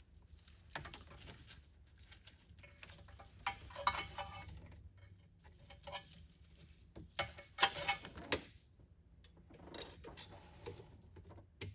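Safety wire and hand tools clicking and clinking against metal as the wire is worked on an aircraft oil filter, with bursts of rattling about four seconds in and again around eight seconds.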